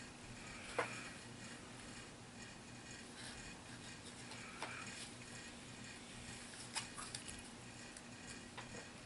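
A few faint, scattered clicks of small plastic game pieces being handled, over a steady low hum.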